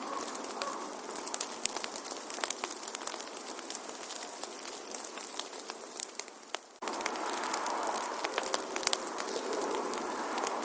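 Wood fire in a fireplace crackling, with irregular sharp pops over a steady hiss. About two-thirds through, the sound dips briefly and then resumes abruptly.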